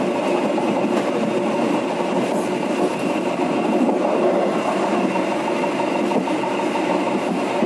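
Penataran passenger train running along the track, heard from the rear of its last coach: a steady rumble of wheels on rail with a few faint clicks.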